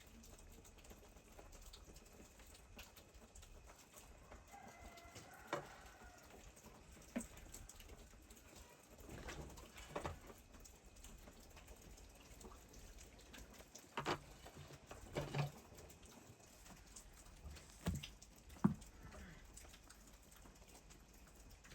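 Quiet with faint, scattered knocks and clicks, about seven in all, and one short wavering bird-like call a few seconds in.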